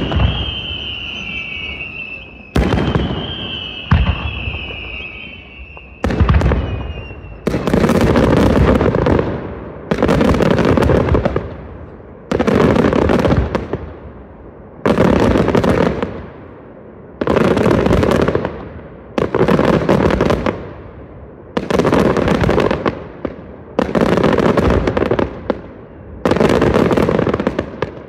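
Aerial fireworks display: in the first few seconds, sharp bangs under a high falling whistle, then loud volleys of rapid-fire reports, one about every two and a half seconds, each lasting over a second.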